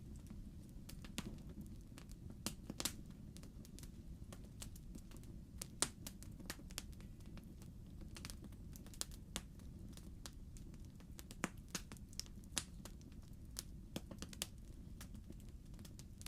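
Burning logs crackling in a fireplace: irregular sharp pops and snaps, several a second, over a steady low rumble.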